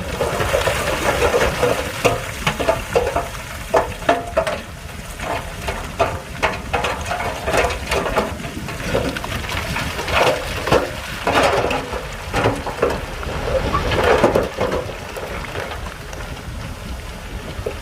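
Stones crunching and clattering as a Shantui bulldozer pushes rock, with irregular sharp cracks over the machine's steady low rumble.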